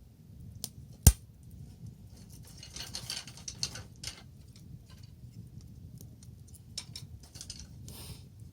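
Wood bonfire crackling with scattered small snaps and one loud sharp pop about a second in, over a steady low rumble.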